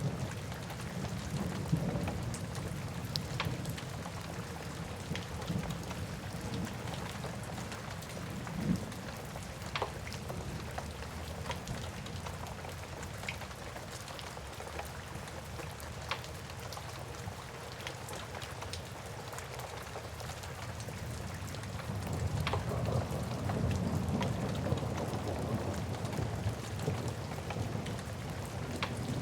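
Steady rain hiss with the sharp, scattered pops of a crackling wood fire. A low rumble swells up about two-thirds of the way through.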